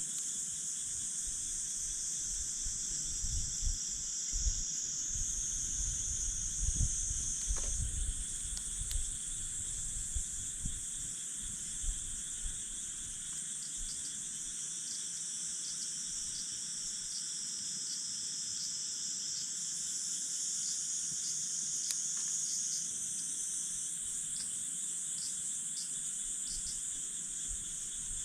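Night insects chirping in steady, layered high trills that carry on throughout, with a few faint pops from a campfire.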